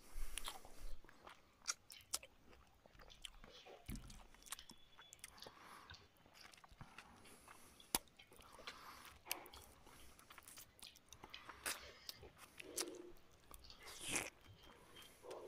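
A man chewing and biting mouthfuls of rice and fish curry eaten by hand: many small irregular clicks and crunches, the sharpest one about eight seconds in.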